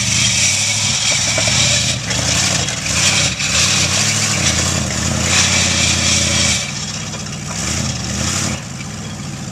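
Chevy 305 V8 running with no exhaust fitted, open and loud, blipped up in revs a few times before dropping back down toward idle about two-thirds of the way in.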